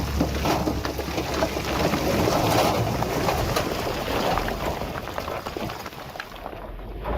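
Loose stones clattering and crunching under heavy earth-moving machinery, with a diesel engine rumbling underneath. It grows quieter about six seconds in.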